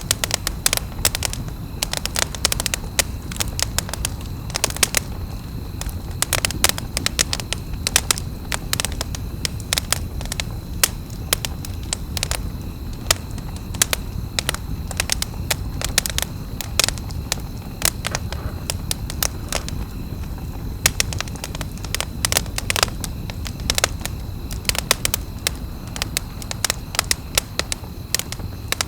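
Campfire crackling, with irregular sharp pops and snaps several times a second over a steady low rumble of the burning wood.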